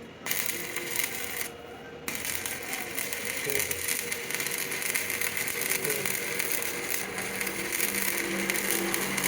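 A lathe turning a steel truck axle while a hand-held cutting tool scrapes along the spinning metal, giving a steady hissing scrape over the machine's running. The scraping cuts out briefly about one and a half seconds in, then resumes.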